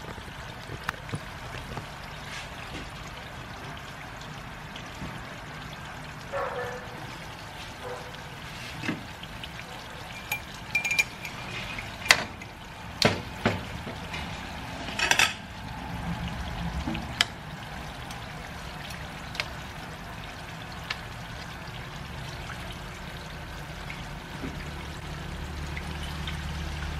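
Browned coconut curds bubbling and crackling in their own rendered oil in an aluminium wok, the late stage of cooking coconut milk down into coconut oil. A few louder sharp pops or clinks come in the middle.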